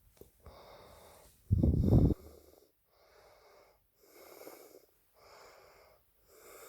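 A dog breathing noisily in wheezy, snorting breaths, about one a second. A loud, low rumble about one and a half seconds in is the loudest sound.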